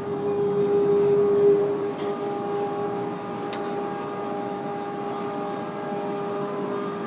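KDK 56-inch industrial ceiling fan (model WZ56W) running, its motor giving a steady hum with a clear tone over the rush of air; the hum swells louder about a second in and settles back. A single short click about three and a half seconds in.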